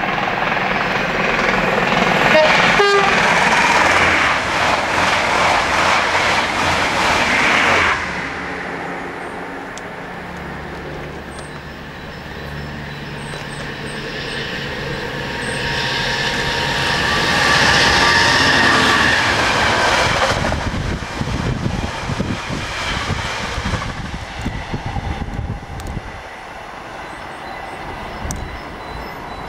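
Trains passing on a main line: the noise swells loud and then breaks off suddenly about eight seconds in. A Class 66 diesel locomotive on a freight train then rises to a second peak and fades, dropping away just past the two-thirds mark.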